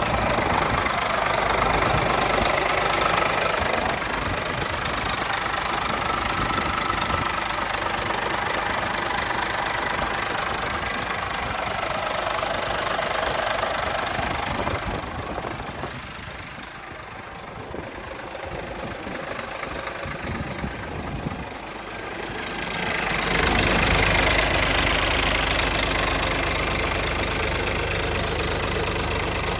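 Scania P 500 truck's 13-litre straight-six diesel idling steadily. Past the middle the sound drops quieter for several seconds, then comes back louder with a stronger deep low tone.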